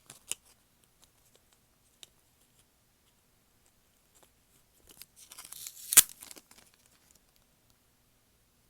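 Plastic packaging being handled and torn open: a few light clicks near the start, then a burst of crinkling about five seconds in that peaks in one sharp tearing snap.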